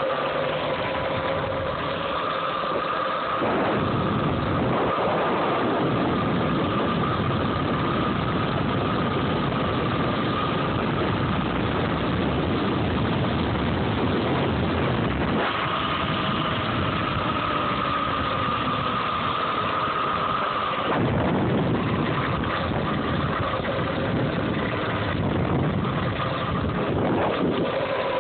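Home-built electric dirt bike riding along: its DC motor gives a steady whine under a loud rushing noise, the whine shifting in pitch a few times as the speed changes.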